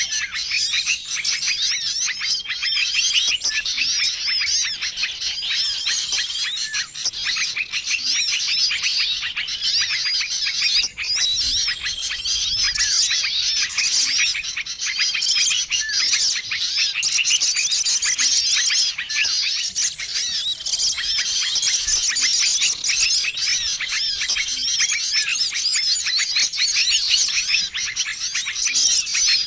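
Bird-lure recording of many small songbirds chirping and twittering at once in a dense, noisy chorus, with a short flat whistle recurring every few seconds.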